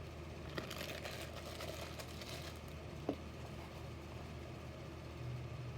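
Quiet room tone: a steady low hum with a few faint clicks and one short blip about three seconds in.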